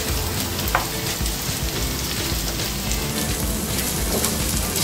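Minced beef with onion and peppers sizzling steadily as it fries in a nonstick pan, stirred with a wooden spoon.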